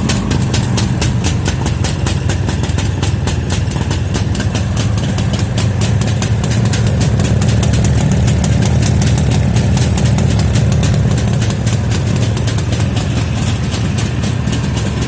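Two-stroke motorcycle engine idling steadily, cold, after a winter start following weeks of standing unused.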